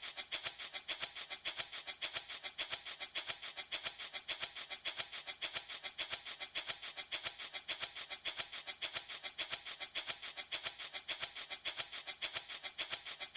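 Handmade baby rattle shaken steadily in an even rhythm, about four shakes a second, with a bright, hissy rattle on each stroke.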